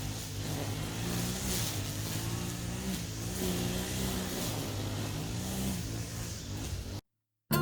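A small petrol engine running, its speed rising and falling a little, cut off abruptly about seven seconds in.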